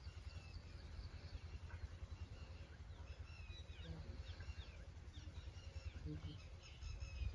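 Small birds chirping in short, quick calls, with several calling at once, over a faint low rumble.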